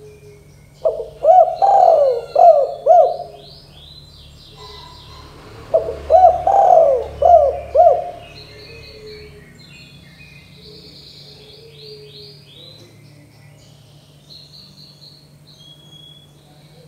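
Spotted dove (tekukur) cooing in two bouts of several short, rounded notes, about five seconds apart. Fainter high chirping from small birds runs underneath.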